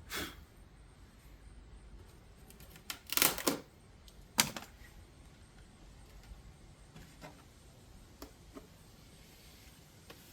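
A few scattered knocks and clatters, like tools or wood being handled and set down: a quick cluster about three seconds in and a single sharp knock about four and a half seconds in, with fainter taps later.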